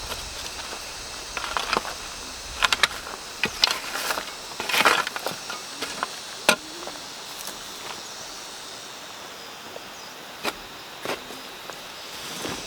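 Irregular sharp knocks and clicks, bunched together over several seconds and then twice more near the end, over a steady outdoor background.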